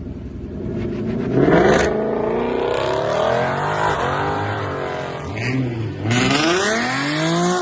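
Car engine being revved, its pitch climbing sharply about a second and a half in, sinking slowly, then climbing again near the end.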